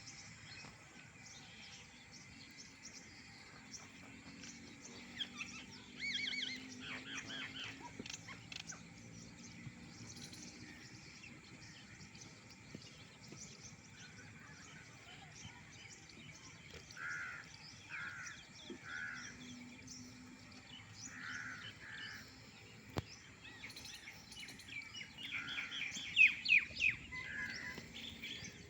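Birds calling, with short calls scattered throughout, a run of three evenly spaced calls about two-thirds through, and a louder flurry of calls near the end.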